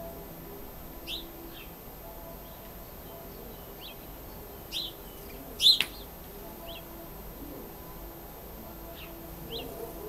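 Small songbirds chirping in short, separate calls scattered every second or so, one louder chirp a little past the middle, over a faint steady low hum.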